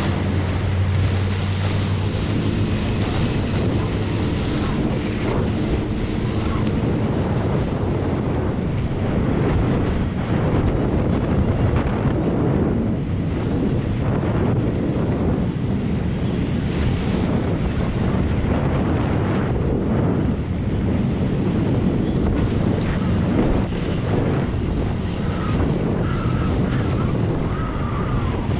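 Tow boat's engine running under power, its hum plain in the first few seconds, then mostly buried under wind buffeting the microphone and water rushing past the hull.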